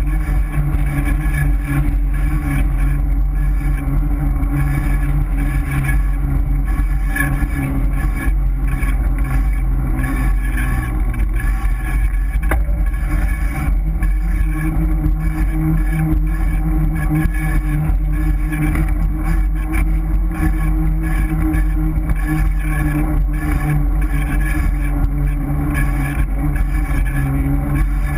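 GT Avalanche 3.0 mountain bike being ridden: a loud, steady rumble and drone that does not let up, with the disc brake rotor rubbing against the pads.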